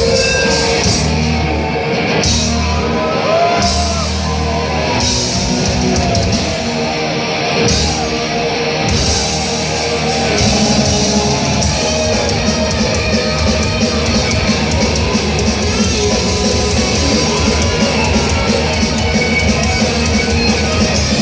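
Heavy metal band playing live: loud distorted electric guitars and drums, with the cymbals filling in continuously from about nine seconds in.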